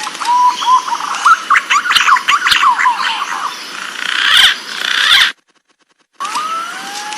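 Green pigeons (punai) calling: a few rising whistles lead into quick, warbling chirps and whistles. The calls cut off about five seconds in, and after a second of silence the same recording starts again.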